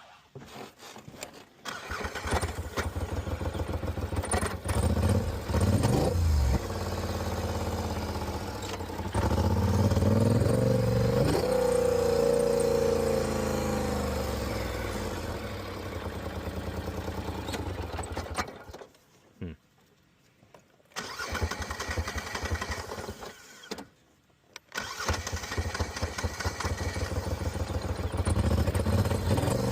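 Polaris Sportsman 850 ATV engine starting, revving and running with a little misfire. It goes quiet twice, about two-thirds of the way in, and runs again after each. The misfire was cured by new spark plugs and plug wires.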